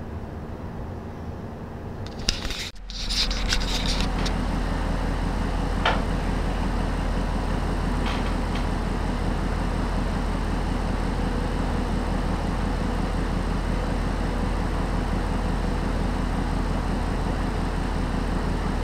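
A 120 mm PC cooling fan running with a steady whirring hum. A short clatter of handling clicks comes about two to three seconds in, then the fan noise is louder and steady, with a low hum underneath and a couple of faint clicks.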